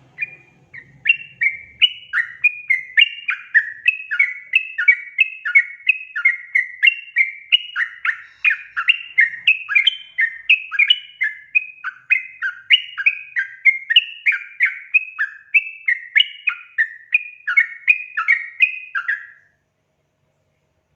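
Yellow-vented bulbul (trucukan) singing: a steady run of quick, downward-slurred notes, about two a second, that cuts off suddenly near the end.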